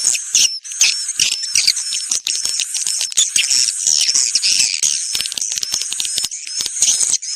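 Swiftlet lure recording: edible-nest swiftlet calls, a loud, dense, high-pitched twittering with repeated short chirps and clicks, of the kind played to draw swiftlets into a nesting house.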